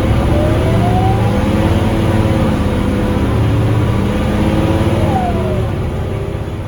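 Scania K360UA articulated bus's diesel engine and automatic gearbox running under acceleration, with a rising whine about a second in and another climbing around four seconds in that drops away sharply just after five seconds.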